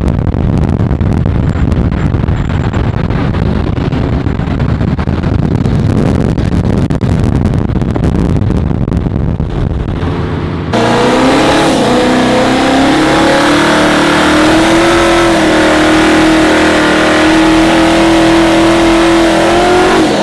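Loud car engine sound. First a rough, dense exhaust rumble. After an abrupt cut about ten seconds in, a steady engine note held at high revs, wavering slightly in pitch.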